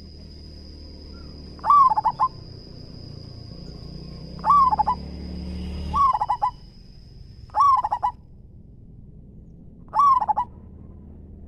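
Zebra dove (perkutut) cooing: five short, rapid rolling phrases a couple of seconds apart. A steady high thin whine in the background stops about eight seconds in.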